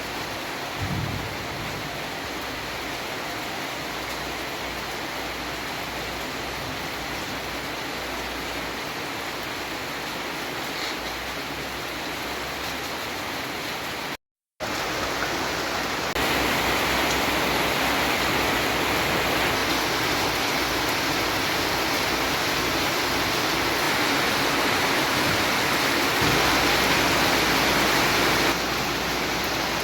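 Steady rushing of water, like heavy rain or a stream, heard as an even hiss. It cuts out for an instant about halfway through and comes back louder.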